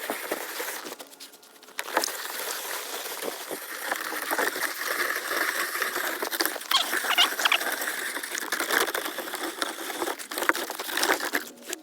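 Water spraying from a hose and pattering onto the snow base of a backyard ice rink, a steady hiss with a short dip about a second in.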